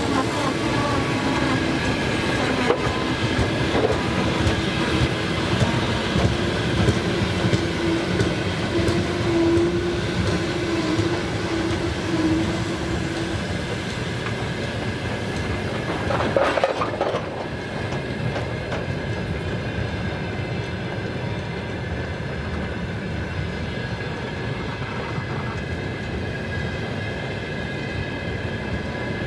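Freight train of hopper wagons rolling past, a steady rumble with wheels clattering over the rail joints. A short louder burst about halfway through, then the rolling noise continues a little quieter.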